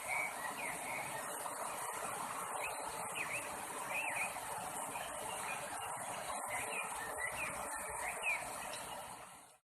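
Small birds chirping in short calls over a steady outdoor hiss, fading out near the end.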